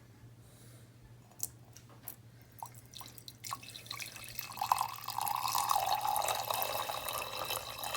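A few light clicks of cups and gear being handled, then liquid starts pouring steadily into a cup about halfway through, as coffee is made with a pour-over dripper.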